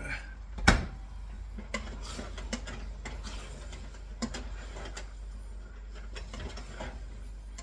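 Kitchen utensils clinking and scraping against cookware, with one sharp knock about a second in and lighter scattered clicks after it, over a steady low hum.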